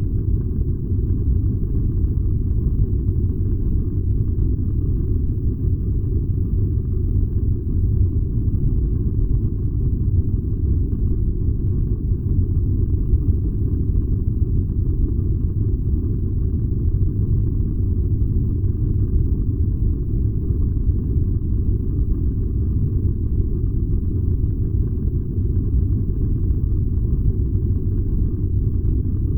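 Furnace running, a steady low rumbling noise that does not change.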